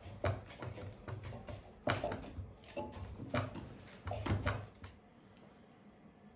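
Clamps being slid and tightened on a wood glue-up, with a string of sharp clicks and knocks about a second apart over a low hum. The handling dies away after about five seconds.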